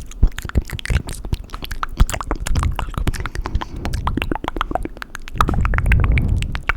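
Fast, wet mouth and tongue sounds close to the microphone: a rapid stream of clicks and smacks, several a second, thickening into a denser, lower wet churning for about a second near the end.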